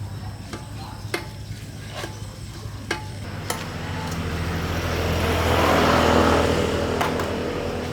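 A motor vehicle passing, rising and then fading over a few seconds, over a steady low engine hum and sharp, occasional taps.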